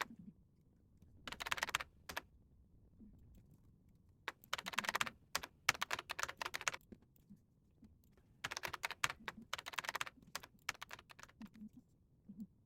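Typing on a computer keyboard in three runs of rapid keystrokes separated by short pauses.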